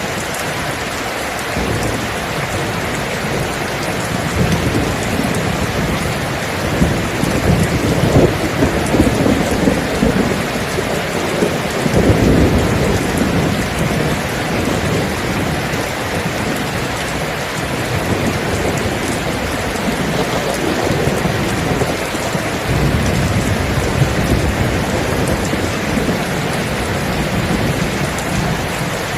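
Steady heavy rain with rolling thunder: low rumbles swell through the rain, the strongest about seven seconds in and again about twelve seconds in.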